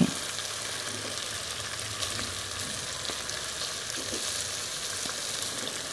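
Chicken tikka pieces frying in a non-stick pot with a steady sizzle, stirred with a plastic slotted spatula that scrapes and taps now and then.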